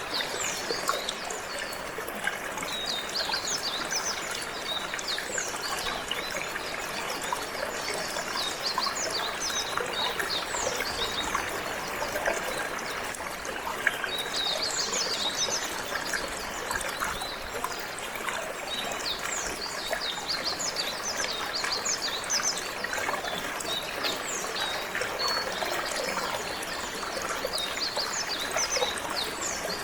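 Water trickling and flowing steadily, with a canary singing bursts of quick, high twittering notes throughout.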